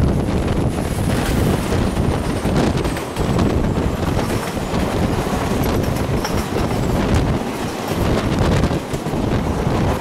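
A passenger train passing close by, its wheels clattering rhythmically over the rail joints with a continuous rolling rumble.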